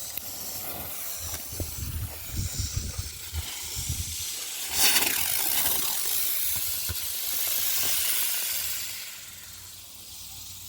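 Colour smoke chopper firework (a spinning ground helicopter) going off: scattered small ticks, then about five seconds in a loud hiss starts sharply, holds for about four seconds and fades away.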